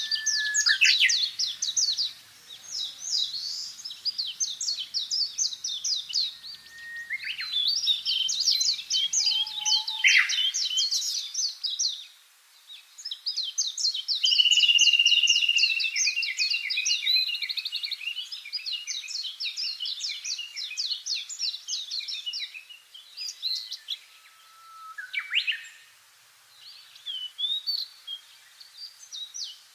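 Songbirds chirping and singing in fast, overlapping trills, with a few short downward-sliding notes and one longer held whistle about halfway through.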